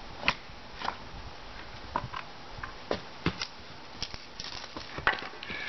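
Irregular sharp knocks and clatter of split firewood pieces being handled, about nine in all, the loudest about half a second in and again near the end.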